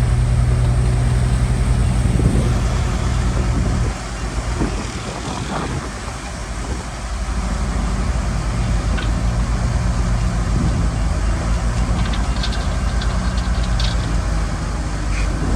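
Shantui bulldozer's diesel engine running under load. Its low drone eases about four seconds in and builds again around seven seconds, with a cluster of short high squeaks and clinks near the end.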